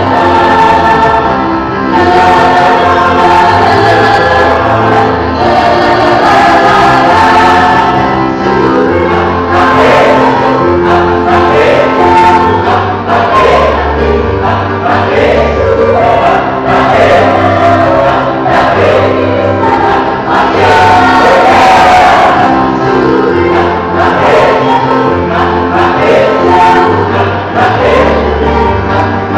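High-school choir singing in several parts, with sustained harmonies over low bass notes.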